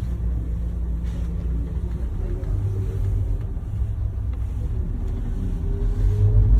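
Tour bus engine and road noise heard from inside the cabin: a steady low rumble that grows louder near the end.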